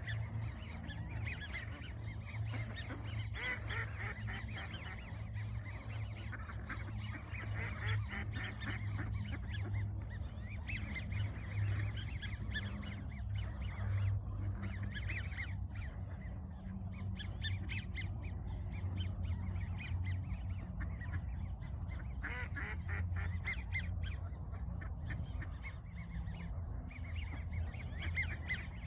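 Ducks quacking, mixed with many high, rapid chirping peeps, over a low steady hum.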